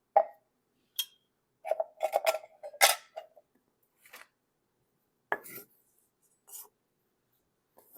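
Kitchen utensils and dishes knocking and clinking on a counter: a scattered run of sharp knocks and clinks, busiest about two to three seconds in.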